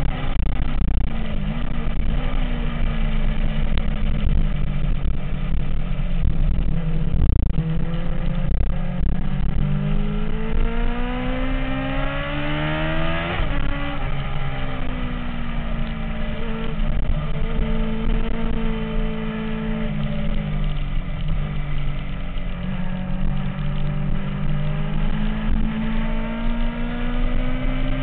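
MV Agusta F4 inline-four engine running under changing revs. The pitch climbs steadily from about nine seconds in to about thirteen seconds in, then drops sharply, holds steadier, and rises slowly again near the end.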